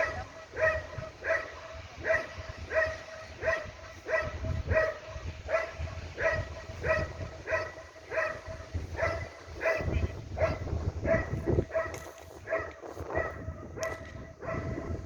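A dog barking steadily and repeatedly at a decoy during protection-guard training, about three barks every two seconds, with a low rumble underneath.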